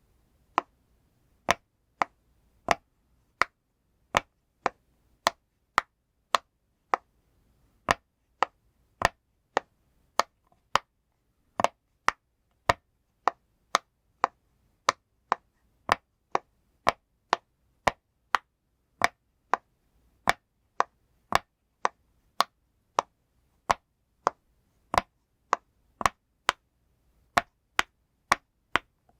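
Bubbles of a pop-it fidget toy being pressed one after another: sharp single pops at a steady pace of about one and a half a second.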